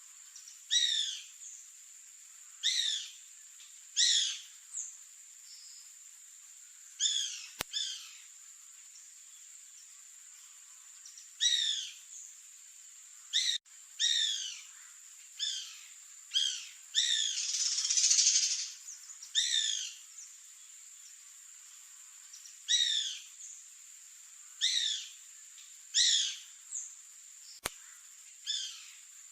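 Bananaquit singing: short, high phrases of quickly falling notes, repeated irregularly, mostly a second or two apart, over a steady thin high-pitched tone.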